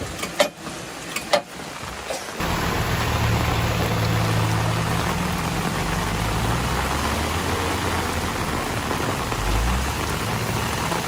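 A few sharp clicks, then, starting suddenly about two seconds in, a truck's engine running steadily under a constant rushing noise.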